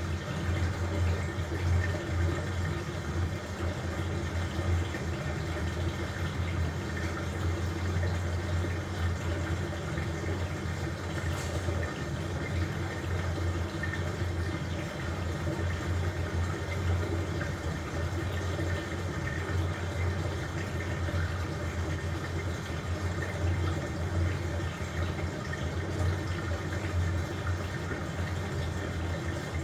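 LG washing machine running mid-cycle with a load of blankets: water running and sloshing in the drum over a steady low motor hum.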